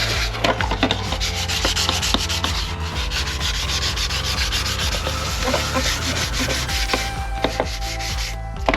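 Hand sanding with 400-grit wet-and-dry paper on a sanding pad, rubbing down dried body filler on a motorcycle side panel: quick, steady back-and-forth strokes with a rasping hiss.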